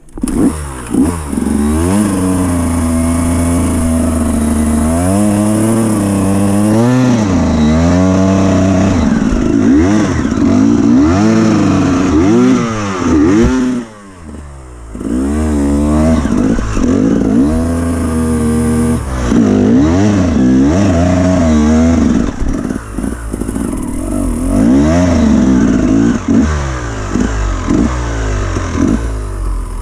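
Enduro dirt bike engine revving hard and repeatedly, its pitch swooping up and down as the throttle is worked. It drops back briefly about fourteen seconds in, then revs up again.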